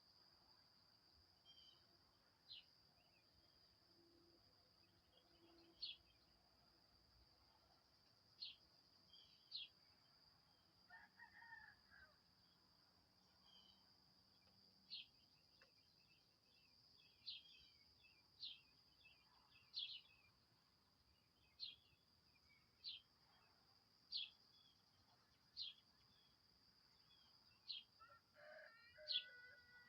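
Faint birdsong: a small bird giving short, sharp high chirps every second or two over a steady high-pitched insect drone. A rooster crows faintly about eleven seconds in and again near the end.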